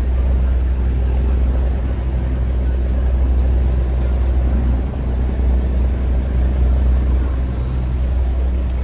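Chao Phraya river tourist boat under way: a steady low engine drone with a few low hum tones, under an even rushing noise.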